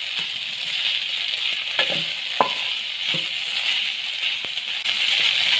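Chicken pieces sizzling in hot oil in a frying pan while a wooden spatula stirs them, with a few sharp clacks and scrapes of the spatula against the pan. The chicken is being sautéed (bhunai).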